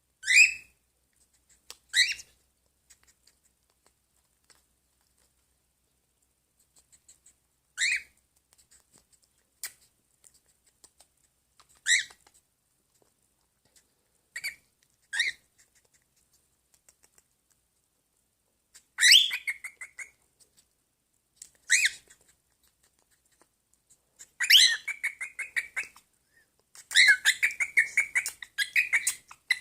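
Pet bird calling: short, sharp calls spaced a few seconds apart, then longer runs of rapid, repeated calls in the last few seconds.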